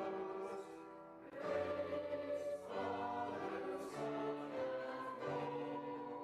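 Voices singing a slow sacred hymn in held notes, with sustained instrumental accompaniment.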